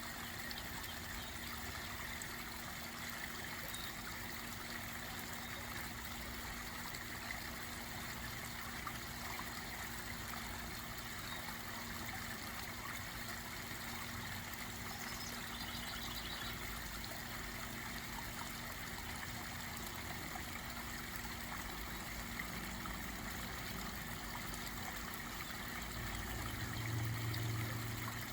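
Garden pond waterfall trickling and splashing steadily. A brief high chirp sounds about halfway through, and a low hum swells briefly near the end.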